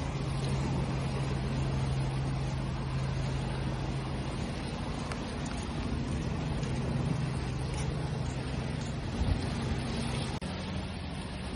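Steady rushing wash of ocean waves with a low, steady engine hum running under it; the hum shifts in pitch about halfway through, and the sound briefly drops out near the end.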